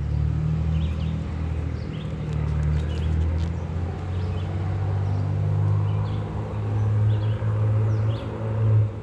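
Honeybees humming around an open hive during a frame inspection, a steady low drone that wavers in level. Faint short bird chirps sound over it.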